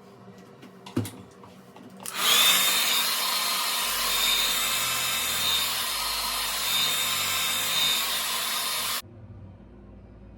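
Handheld hair blow dryer switched on about two seconds in, running with a steady rush of air and a high whine, then switched off abruptly about nine seconds in; it is drying a layer of lace glue on the wig's hairline. A click comes just before it starts.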